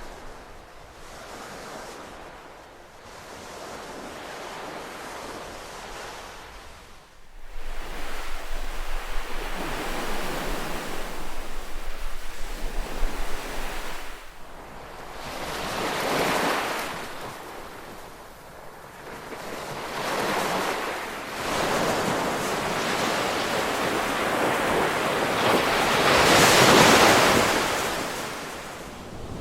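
Ocean surf: waves rush in and wash back in slow swells, the level jumping up suddenly about seven seconds in, with the loudest surge near the end.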